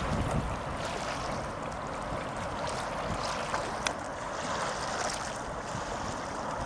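Tram running, a steady rushing rumble of wheels on track mixed with wind noise; a single sharp click about four seconds in.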